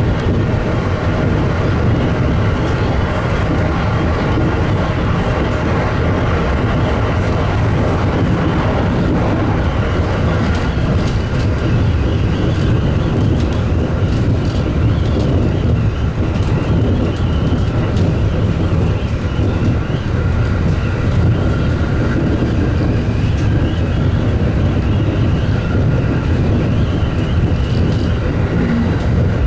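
Local electric commuter train running along the line: a steady low rumble of wheels on rails with a faint hum and scattered light clicks.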